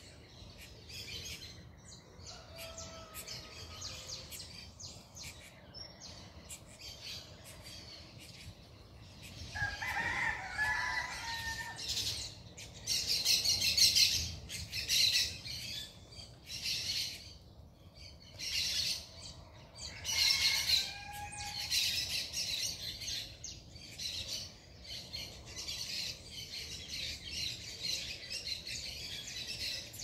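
Many small birds chirping and twittering at once, high-pitched, growing louder and denser about ten seconds in. Two longer, lower calls stand out over it, one about ten seconds in and another about twenty seconds in.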